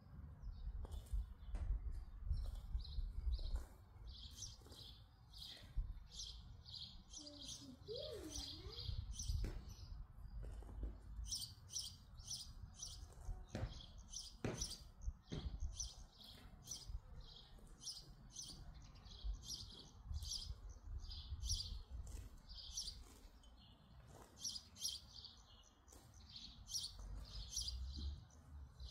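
Small songbirds chirping: many short, high chirps repeating several times a second, over a low rumble. A few sharp clicks come about halfway through.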